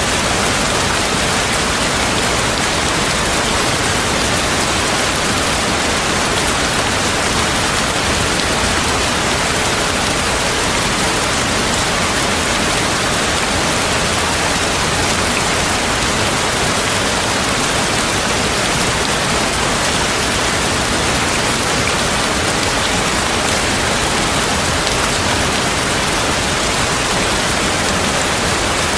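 Heavy rain falling steadily, an even, unbroken hiss of water with no thunder or separate drops standing out.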